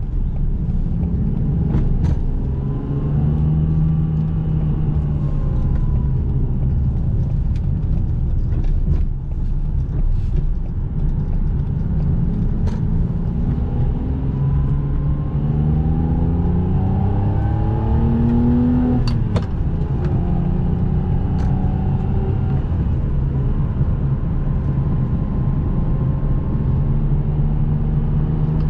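2005 Ferrari 612 Scaglietti's V12 engine heard from inside the cabin, pulling up through the revs under acceleration, its note climbing and then dropping sharply at a gear change about two-thirds of the way through, before settling into a steady cruise over road noise.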